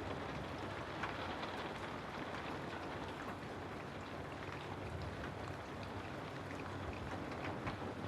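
Steady rain falling, an even hiss with many small drops tapping and dripping close by.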